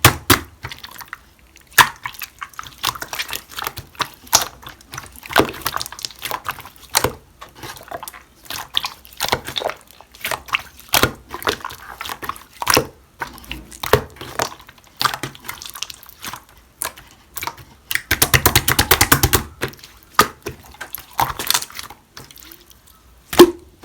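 White, milky pongdang slime being squeezed and worked by hand, giving wet clicks and pops at an uneven pace, with a fast run of crackling pops about eighteen seconds in.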